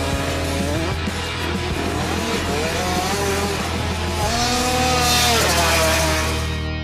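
Dirt bike engines revving up and down over a rock music track, loudest about four to six seconds in.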